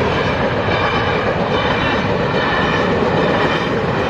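Passenger train passing over a level crossing, with a loud, steady rumble and rattle of its wheels on the rails.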